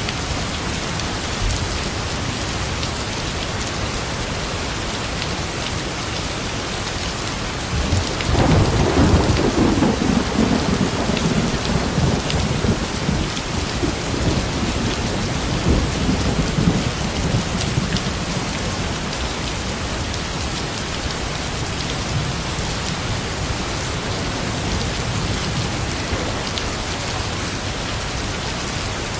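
Steady rain falling, with a roll of thunder that breaks in about eight seconds in and rumbles off over roughly ten seconds.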